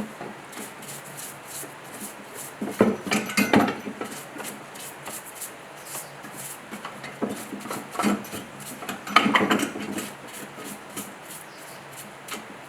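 Metal engine parts being handled and worked on: clusters of clinking, clattering knocks and scraping about three seconds in, again around seven to eight seconds and near nine seconds, over a faint, fast, regular ticking.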